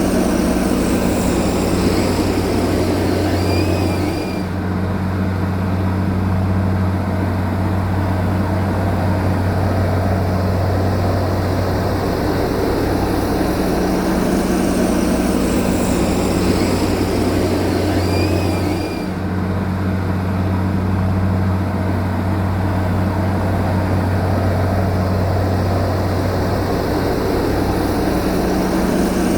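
Heavy diesel engine of an earth-moving machine running steadily with a loud low drone. Its level dips briefly twice, and the same pattern repeats about every fifteen seconds.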